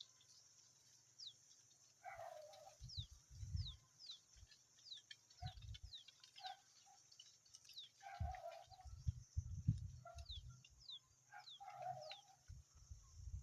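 Pipit nestlings begging: a rapid, irregular series of short, high-pitched downward-sliding peeps. Three lower, longer calls break in, along with several dull low thumps.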